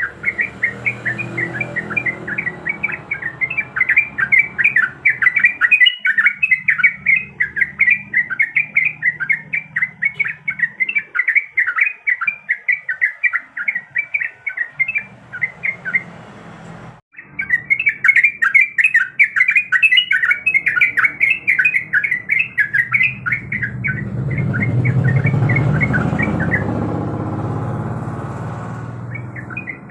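Yellow-vented bulbul (trucuk) singing in a fast, continuous run of bubbly chirps, several a second. It breaks off briefly a little past the middle. Near the end a low rumble swells and fades beneath the song.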